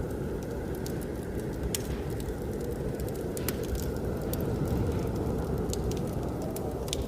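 Wood fire crackling, with irregular sharp pops, over a steady low rush of blizzard wind.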